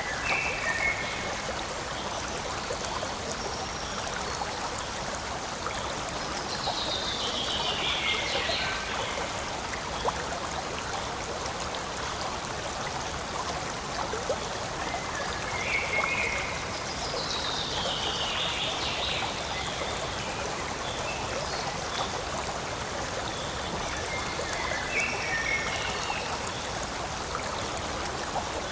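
Forest stream flowing and trickling steadily over stones. Over it, a short high call sweeping downward comes back three times, about every ten seconds, with a few brief high chirps between.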